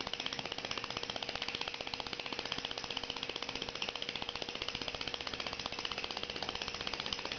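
K-D Angelique oscillating-cylinder vertical steam engine running smoothly under steam, with a fast, perfectly even beat of strokes, several a second.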